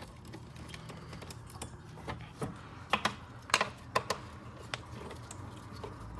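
Scattered light clicks and taps of an 8mm nut driver working the fasteners of a plastic engine intake air duct, with a cluster of sharper clicks about three to four seconds in.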